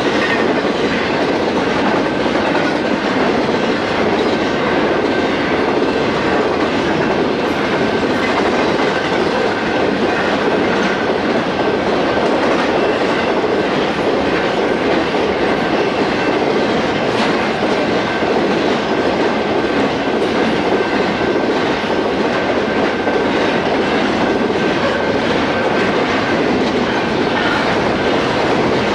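Train rolling past, its steel wheels clacking over the rail joints in a continuous run of clicks under a steady rumble of wheels on rail, with a faint thin high whine held through most of it.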